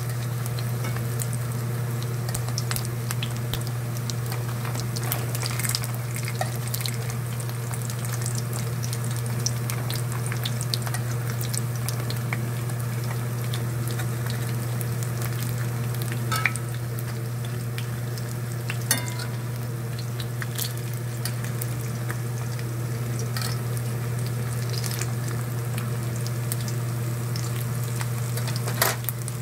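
Battered pork pieces shallow-frying in hot oil in a stainless pan: a steady sizzle full of small crackles over a constant low hum. Metal tongs click against the pan a few times as the pieces are turned.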